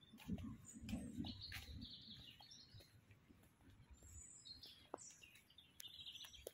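Small birds chirping faintly, in scattered short high calls. A low rumble sits underneath, strongest in the first second or so.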